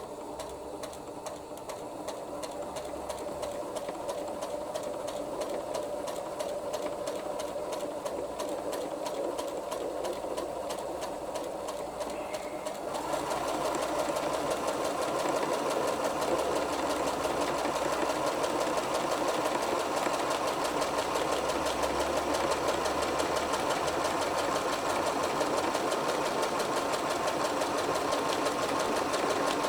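Sewing machine running, its needle stitching rapidly and evenly through heavy fabric; it gets louder a little before halfway through.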